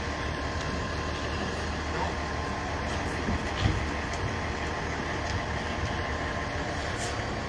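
Large diesel engine, most likely a fire truck's, idling steadily with a constant low hum.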